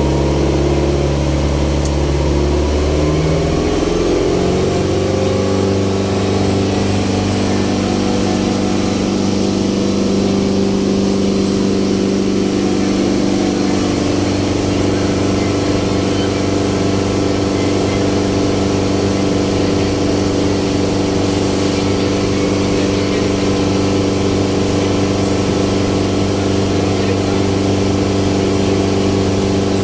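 Ferry boat's engine running loud and steady, heard on board. Its pitch rises about three seconds in, then holds even.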